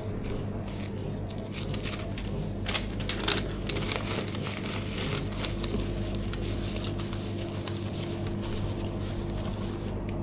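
Intermittent crinkling and rustling, as of wrapping being handled, thickest a few seconds in, over a steady machine hum.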